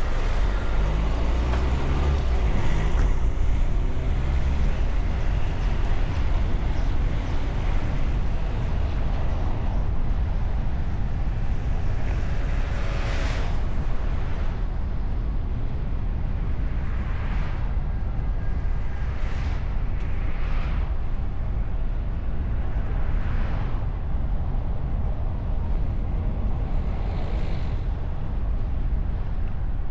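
Wind and road noise of a moving car, picked up by a bonnet-mounted camera behind a wind muff: a steady low rumble with a hiss over it, and several brief whooshes that swell and fade.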